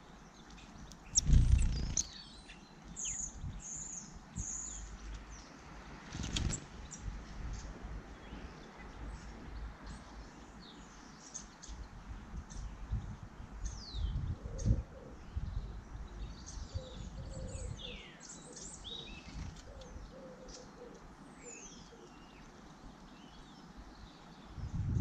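Small garden birds chirping with many short high calls and quick downward-sliding notes. A loud low thump comes about a second in, with softer thumps later.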